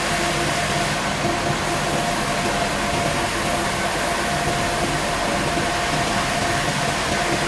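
Sawmill machinery running steadily: a continuous mechanical noise with a constant hum and no sharp cuts or knocks.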